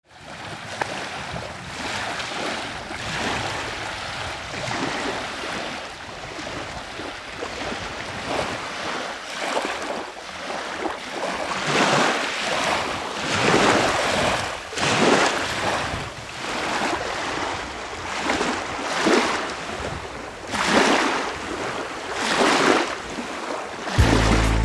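Waves washing onto a shore, the surge swelling and falling away every second or two.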